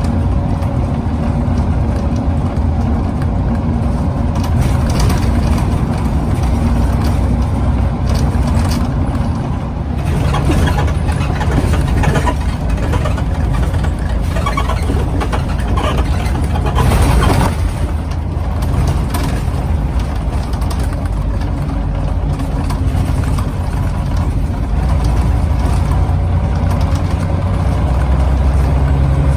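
Scania CN94UB OmniCity bus engine, a 9-litre five-cylinder, running under way, heard from on board. There is a brief hiss about two-thirds of the way through, and the engine sound grows fuller near the end.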